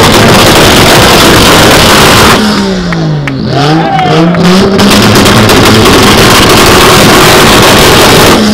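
Car engine held at high revs, very loud and distorted, with a dense noise over it; about two and a half seconds in the revs drop and climb back up, then hold high again.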